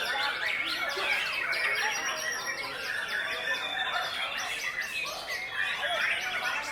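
White-rumped shamas (murai batu) singing in competition, several at once: a dense, unbroken run of rapid, overlapping whistled phrases and chatter, with a few held whistles in the middle.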